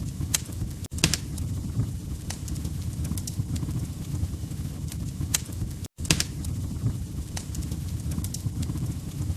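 Wood fire in a fireplace crackling: a steady low rumble of flames with irregular sharp pops and snaps. The sound cuts out for an instant twice, about a second in and again near six seconds.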